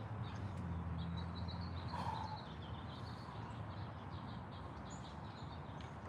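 Small bird chirping in a quick run of short notes over steady outdoor background noise with a low hum.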